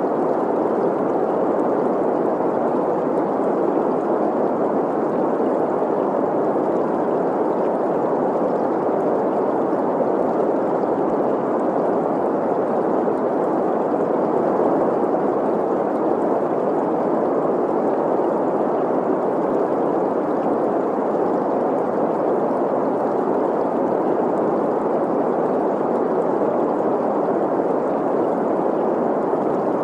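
Steady green noise, an even hiss centred in the middle of the range, blended with the running water of a stream.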